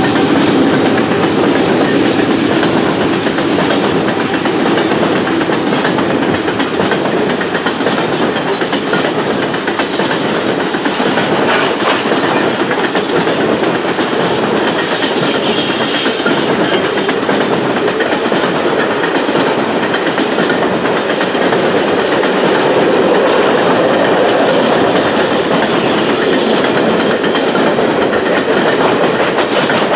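A long coal train's steel-wheeled coal cars rolling steadily past, wheels clattering over the rail joints in a continuous clickety-clack.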